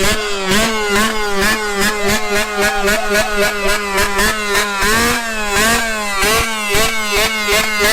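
Honda CR85 two-stroke dirt bike engine running loud, its pitch rising and falling rapidly over and over.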